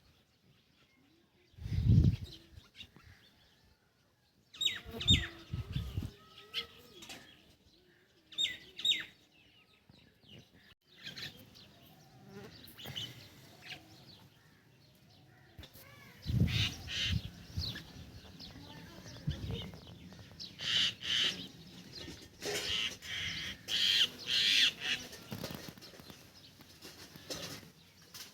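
Short, high, falling bird chirps repeated in small groups, busier in the second half. Dull low thumps come in between, the loudest about two seconds in.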